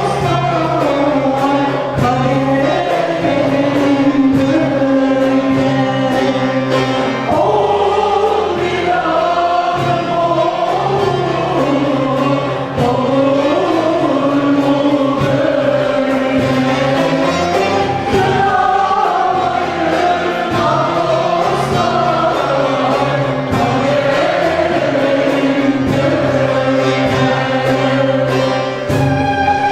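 Turkish folk music choir singing with instrumental accompaniment and a steady percussion beat.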